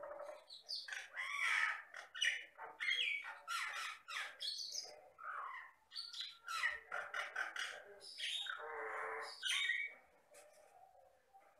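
Jalak Batam myna singing a rapid, varied medley of whistles, chirps and harsh squawks, including a longer rasping squawk near the end, typical of this mimicking species' song. The calls fade near the end.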